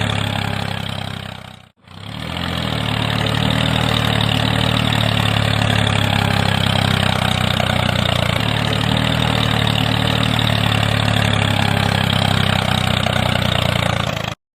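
A small motor running steadily at a constant pitch. It cuts out abruptly about two seconds in, spins back up within a second, and stops suddenly near the end.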